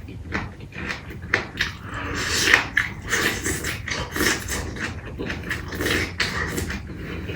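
Close-miked eating sounds of a person eating chicken: wet chewing and lip-smacking in irregular bursts.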